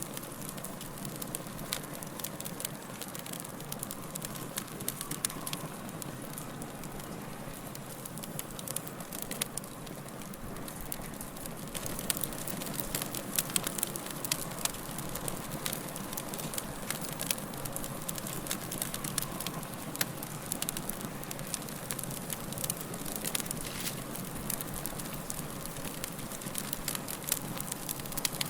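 Wood fire crackling: irregular sharp pops and snaps over a steady hiss, the pops louder and more frequent in the second half.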